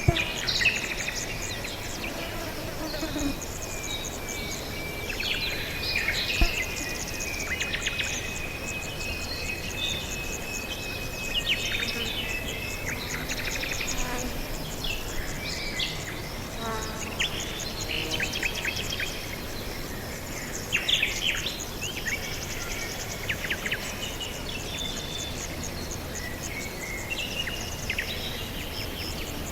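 Several birds chirping and trilling in quick, high, repeated notes, over a steady background of insects calling. A long, steady high tone runs through the first third.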